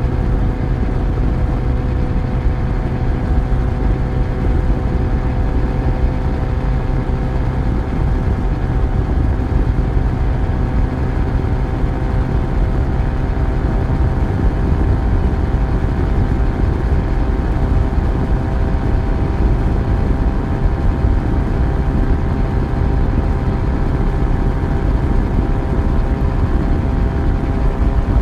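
Yamaha FZ1's inline-four engine running steadily at a near-constant speed, its pitch shifting slightly about halfway through, over a steady rushing noise.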